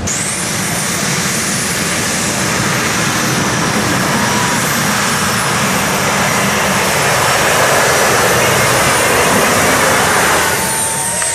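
A modified pulling tractor's engine running flat out down the track: a loud, steady, noisy engine sound with a high whine. The whine rises at the start and falls away about ten seconds in as the engine winds down at the end of the pass.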